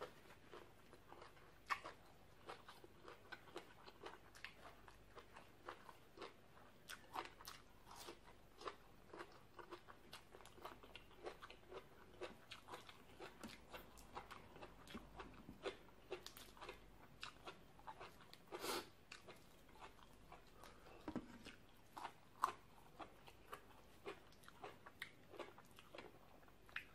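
A person chewing and biting crunchy green papaya salad and raw vegetables: a quick run of short, crisp crunches and mouth clicks, with a few louder bites.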